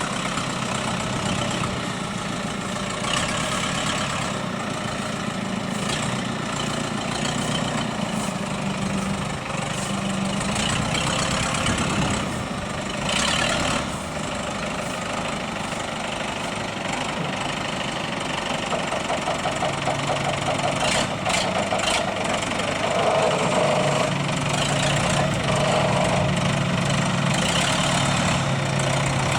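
Old farm tractor's engine running steadily, its note changing about two-thirds of the way through, with a few short clatters.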